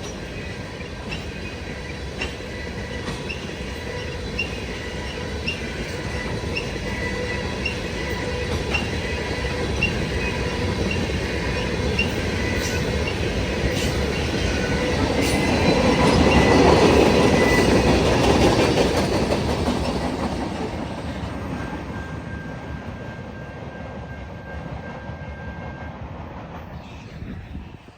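Freight cars of a CN freight train rolling past, wheels clicking over rail joints and squealing in steady high tones. The rumble swells a little past the middle and fades toward the end.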